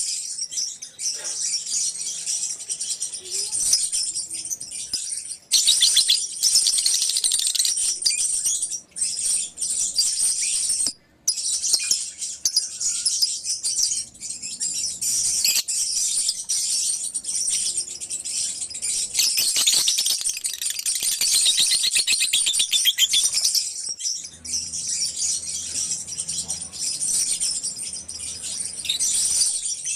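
A colony of lovebirds chirping and chattering all at once: a dense, high-pitched twittering that keeps on throughout, broken off for a moment about eleven seconds in.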